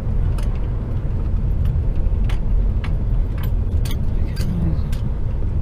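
HGV truck cab while driving: a steady low engine and road rumble, with scattered sharp clicks at irregular moments.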